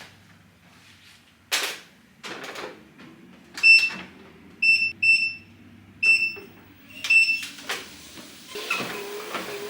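Several short, high electronic beeps, single and in pairs, like button presses on an appliance's keypad, followed near the end by a machine starting up with a steady sound that pulses about twice a second.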